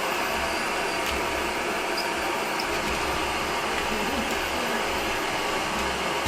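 Vacuum cleaner running steadily, its power head's rotating brush turning again on a newly replaced brush motor.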